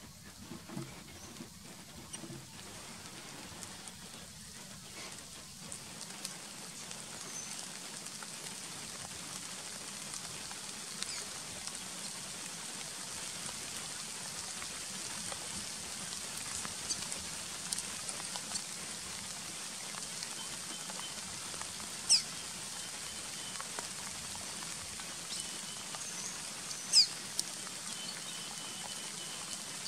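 Quiet outdoor ambience: a steady faint hiss with scattered small ticks, and two short, sharp high bird calls about 22 and 27 seconds in.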